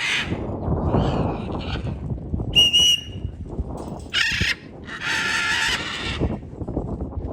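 Free-flying birds giving loud, harsh calls, four or five of them, each up to about a second long, with a short clear whistle about two and a half seconds in. Wind rumbles on the microphone underneath.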